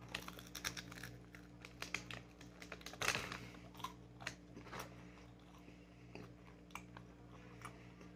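A person chewing a bite of a cold, chewy churro with the mouth close to the microphone: soft, irregular wet clicks and smacks, busiest about three seconds in. A faint steady hum runs beneath.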